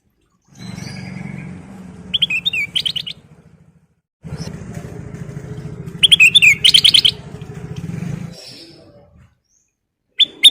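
Kutilang emas (a bulbul) singing twice, each phrase a quick run of loud, sharp whistled notes, over a low steady engine-like hum that starts and stops abruptly.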